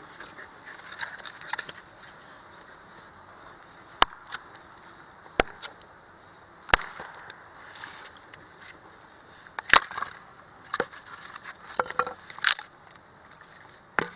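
Sharp cracks and knocks of wood at irregular intervals, about a second or more apart, with a few louder snaps near the middle and end.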